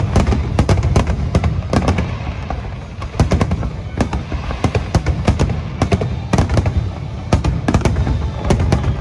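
Dense barrage of aerial firework shells bursting, many sharp reports a second overlapping on a continuous low rumble.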